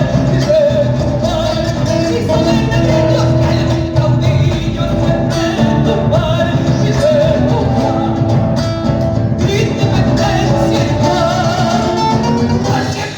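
Live Latin music amplified through a PA system: a singer's voice carries over the band.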